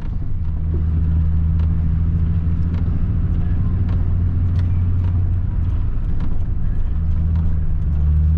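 Nissan 300ZX's V6 engine running at a steady drone while driving on a snowy road, with light scattered ticks over it.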